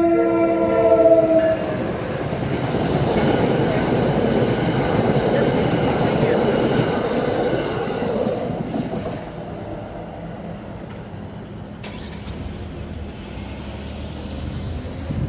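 NJ Transit commuter train's horn sounding and cutting off about a second and a half in. The train then passes through the crossing with a loud rush of wheel-on-rail noise, which fades after about eight seconds.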